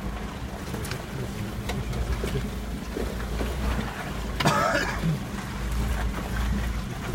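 Low steady engine rumble of an off-road vehicle, with scattered knocks and rattles, and one brief higher-pitched sound about four and a half seconds in.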